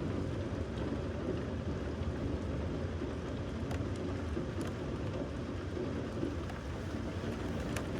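Steady rain during a thunderstorm, an even wash of noise with a deep low rumble under it and a few sharp drops ticking now and then.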